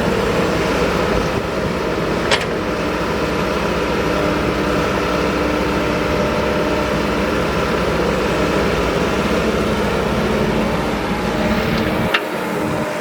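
Excavator's diesel engine running steadily, with a sharp knock about two seconds in and another near the end, after which the deep low rumble drops away.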